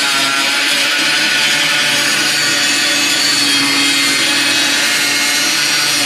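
Angle grinder with a large cutoff wheel running steadily under load, cutting through the steel of a car body's door hinge pillar.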